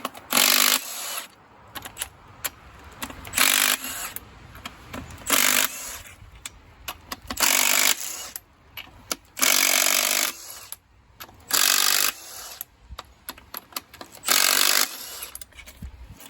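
A handheld power tool, such as a cordless impact wrench or electric ratchet, runs in about eight short bursts every couple of seconds while backing bolts out of a Case 188D diesel engine's bottom end. Between the bursts there is lighter clinking of tools and parts.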